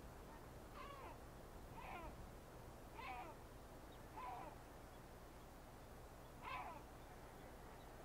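A bird calling faintly: five short calls that fall in pitch, about a second apart with a longer pause near the middle.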